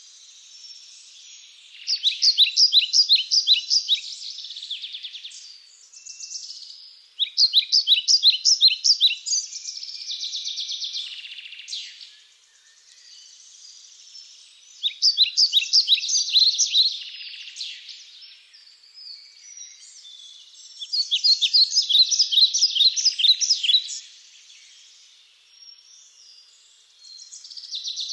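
A songbird singing: four phrases of rapid, repeated high notes, each about two seconds long and several seconds apart, with softer chirping from other birds in between.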